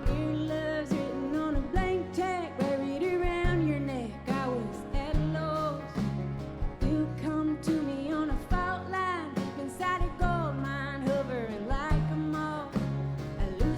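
Live band playing a country-rock song. Drums keep a steady beat under a held bass line and guitars, with a lead melody that slides up and down in pitch.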